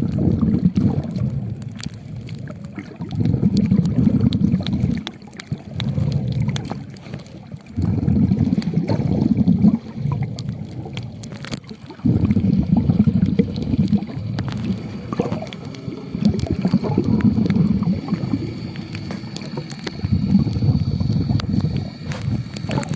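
Water noise with bubbling gurgles heard underwater, coming in surges of about two seconds with short lulls between, the rhythm of a swimmer breathing, with scattered small clicks.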